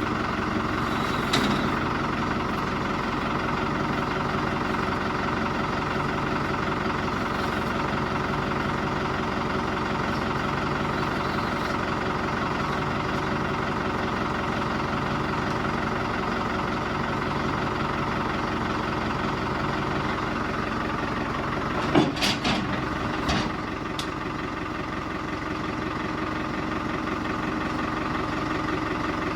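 Tractor engine running steadily at idle, with a few sharp knocks, the loudest about 22 seconds in.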